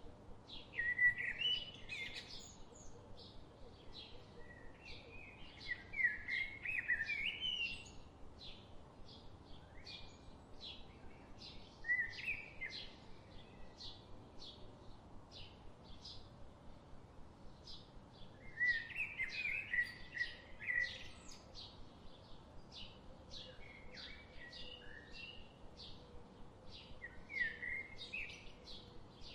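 Wild songbirds calling: a steady series of short, high chips about two a second, with louder warbled song phrases breaking in every few seconds.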